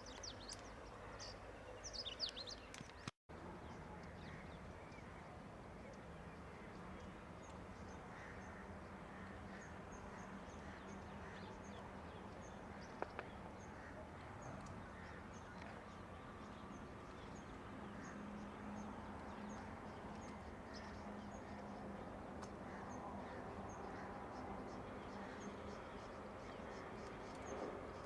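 Birds calling in the open. There are a few sharp chirps in the first three seconds, then a brief cut. After that comes a faint, steady background with a run of regular high chirps.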